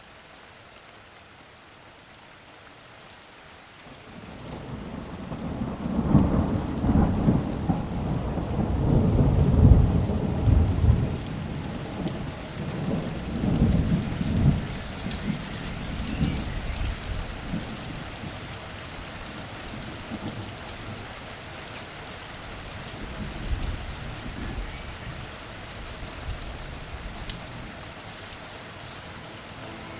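Steady rain hiss with a long roll of thunder that swells in about four seconds in, rumbles loudest for several seconds and slowly fades back into the rain.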